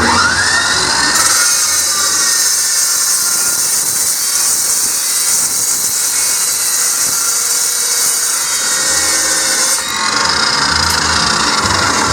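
Power saw spinning up with a rising whine, then cutting through a steel skate rail with a loud, steady, high hiss. The cut ends about ten seconds in.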